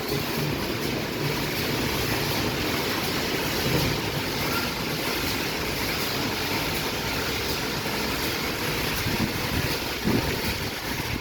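Istobal M12+ rollover car wash running, a steady rush of spraying water and machine noise.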